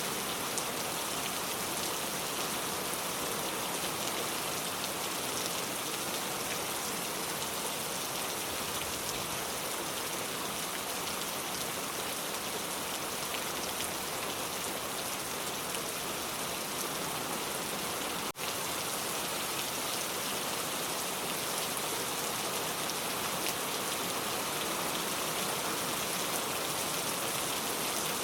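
Steady rain falling, an even hiss of many drops with no single sound standing out; the sound drops out for an instant about two-thirds of the way through.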